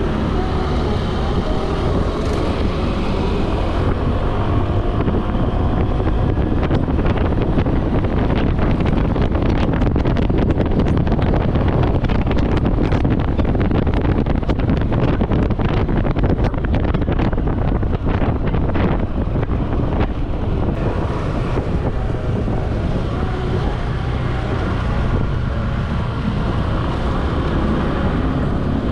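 An 1800cc jet ski's engine running at speed, with wind buffeting the microphone. A run of sharp knocks comes through the middle stretch.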